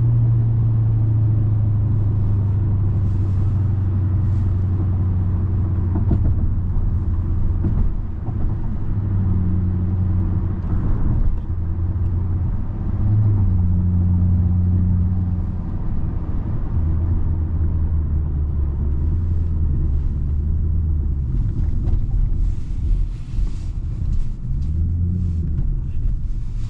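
2010 Hyundai Genesis sedan's 4.6-litre V8 running as the car drives, over a steady low road rumble. The low engine note drops in pitch in the first seconds, then rises, falls and changes level several times as the throttle comes on and off.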